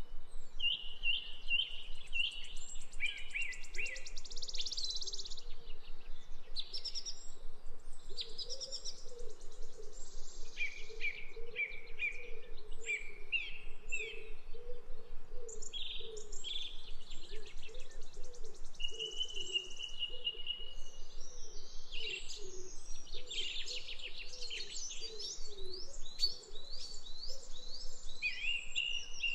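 Small songbirds chirping and trilling, their calls overlapping almost without pause, with a low wavering warble running underneath.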